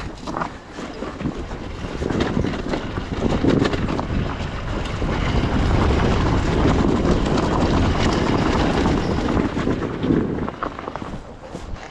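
Wind buffeting the microphone over the running engine of an enduro motorcycle being ridden, rising about two seconds in and easing off near the end.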